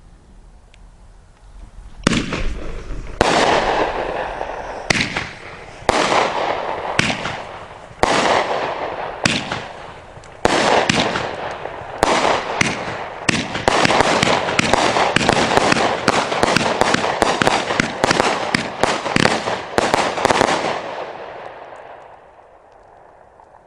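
Raccoon 'Strobing Willow' 25-shot, 200-gram firework cake firing: sharp shots about a second apart at first, each followed by a noisy tail as the willow and strobe effects burn. The shots come faster in a quick volley from about halfway through, then the sound dies away over the last couple of seconds.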